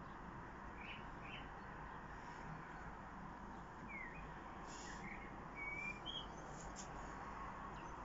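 Faint songbirds: a few short, scattered chirps and one brief whistled note a little after halfway, over steady outdoor background noise.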